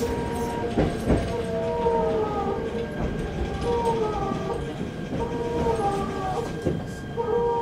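Inside an SR1-series electric train pulling into a station: steady running noise, with wheels clicking over rail joints a couple of times about a second in. A short tone at several pitches, falling slightly, repeats about every second and a half to two seconds.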